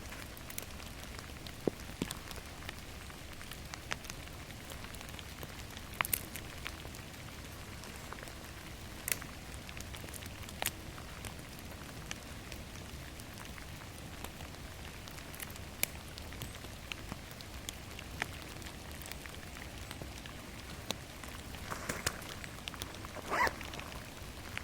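Steady rain falling in a forest, with scattered sharp ticks of single drops striking close by, and a brief louder rustle shortly before the end.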